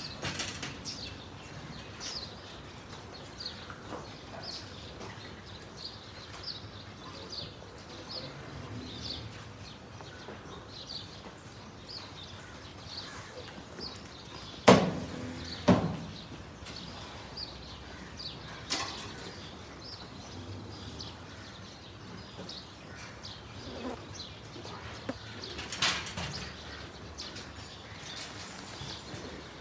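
Small birds chirping over and over in short high notes, with two loud thumps about a second apart midway.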